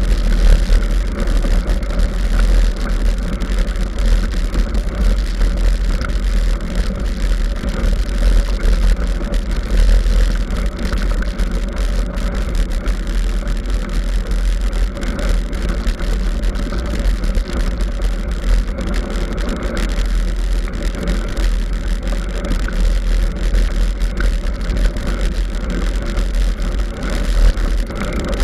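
Continuous low rumble and rattling from a mountain bike ridden over a forest trail, heard through a bike- or helmet-mounted camera with wind buffeting its microphone.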